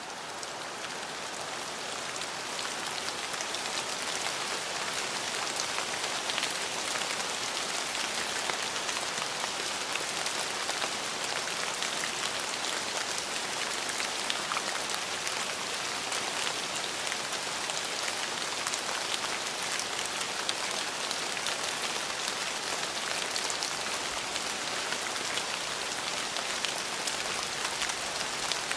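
Steady rain falling on a surface: a dense, even patter with individual drops ticking through it. It swells over the first few seconds, then holds steady.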